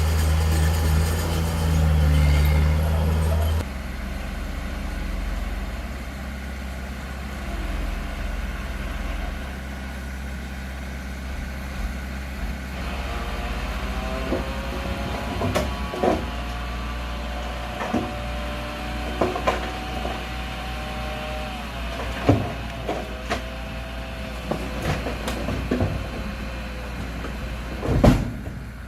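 Heavy diesel earthmoving machinery running: the engine is loud at first and drops to a lower, steady rumble about three and a half seconds in. From about halfway there is a wavering pitched whine with scattered sharp knocks, the loudest just before the end.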